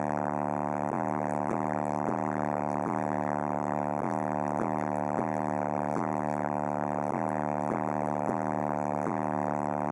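Car audio subwoofers, DC Audio XL 18-inch, playing a deep bass track pitched around 38 Hz, heard as a loud distorted buzzing drone that pulses in a steady beat about one and a half times a second.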